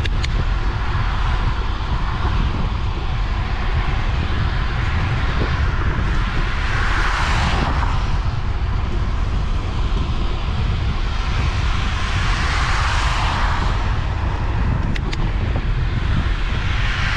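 Wind rumbling on the microphone of a moving bicycle on a wet road, under a steady hiss of wet tyres. The hiss swells three times, each swell lasting a second or two, as vehicles pass on the wet road. Two faint clicks.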